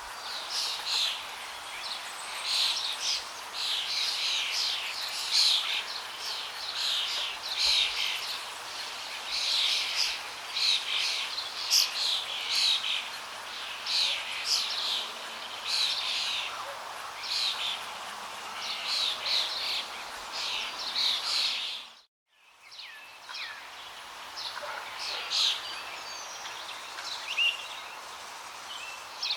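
Several songbirds chirping and singing busily over a steady rush of flowing water. About three quarters of the way through, the sound cuts out for a moment, then returns with fewer bird calls.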